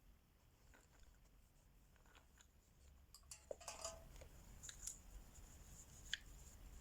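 Faint small clicks and short scratchy rustles of wax crayons and paper being handled, busiest in the middle, with one sharper click near the end.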